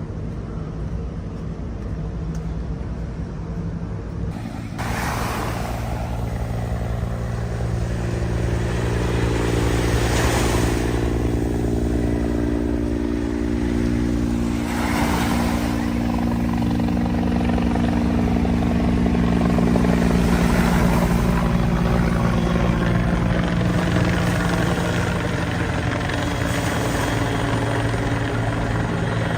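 A motor engine running steadily.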